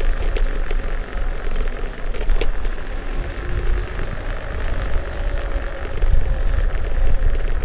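Kukirin G2 electric scooter on the move: a steady low rumble of wind on the microphone and road noise, with many quick rattling clicks as it rides over the surface and a faint steady whine.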